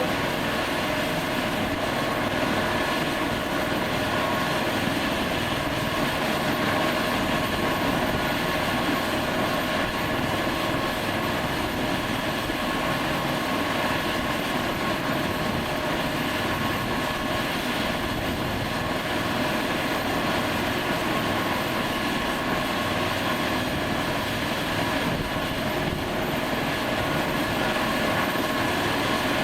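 Eurocopter air ambulance helicopter running steadily: a constant turbine whine over an even rushing rotor noise, holding the same level throughout.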